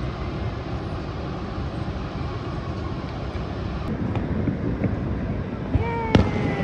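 A steady low roar, then, about two seconds before the end, the first fireworks shells bursting with sharp bangs, alongside a drawn-out tone that slowly falls in pitch.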